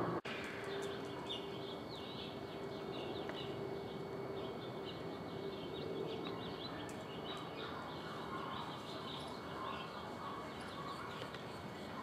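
A bird singing a long, unbroken run of quick, varied chirping notes.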